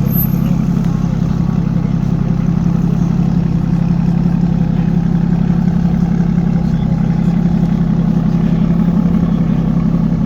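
Aston Martin Rapide S V12 engine idling steadily, with a deep, even exhaust hum.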